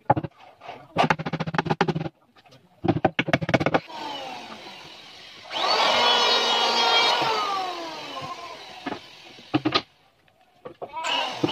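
A handheld woodworking power tool: its motor runs, then winds down with falling pitch, gives two brief blips, and near the end spins up again. Before it, three short bouts of rapid rasping strokes.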